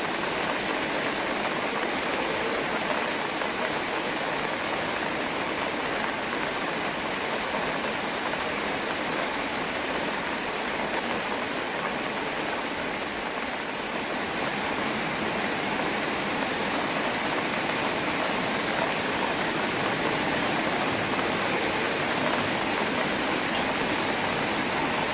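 Steady rain falling on a pond and the park around it: an even, unbroken hiss of many drops.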